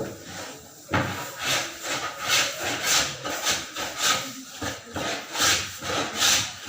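Rhythmic scraping strokes, about two or three a second, starting suddenly about a second in.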